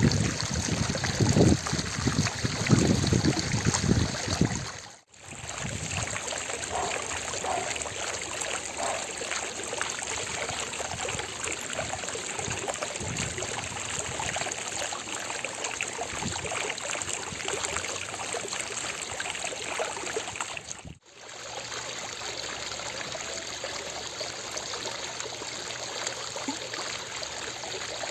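Fountain water splashing and running steadily, heavier and lower for the first five seconds. The sound drops out briefly twice, about five seconds in and again near the 21-second mark.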